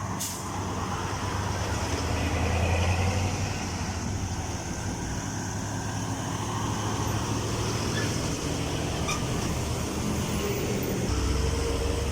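Road traffic with heavy vehicles: truck and car engines running low and tyre noise from passing vehicles, swelling louder a couple of seconds in and again near the end.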